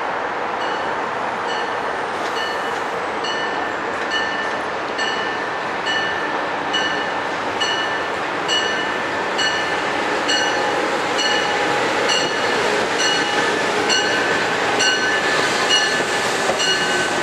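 Electric commuter trains arriving at a station platform: a steady run and hum with a whine, under a bell ringing at an even pace, about three strikes every two seconds. Near the end a second train can be heard coming in on the next track.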